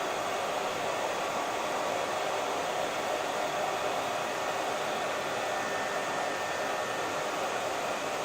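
Hair dryer running steadily, an even whooshing rush of blown air with no change in speed or pitch.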